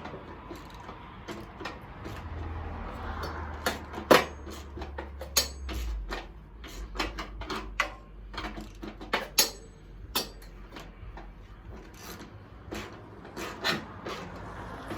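Hand tools clicking and clanking against metal parts in irregular knocks, some with a short metallic ring, as a wrench is worked on bolts.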